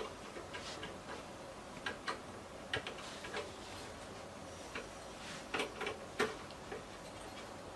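Faint, irregular clicks and light knocks of hands handling a desktop PC and its cables while it is being connected up, the loudest knock about six seconds in.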